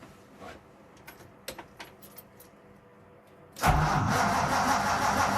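A few light clicks of the ignition key, then about three and a half seconds in the van's engine starts on full choke and keeps running steadily: a cold start.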